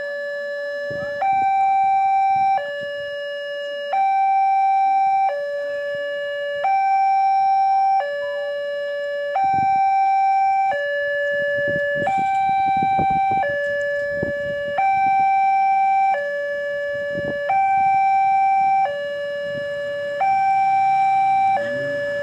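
Railway level-crossing warning alarm sounding: two electronic tones alternating high and low, each held about a second and a half, the signal that a train is approaching.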